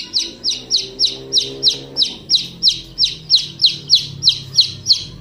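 A small bird calling with a fast, regular run of short high chirps, each sliding down in pitch, about three or four a second without a break.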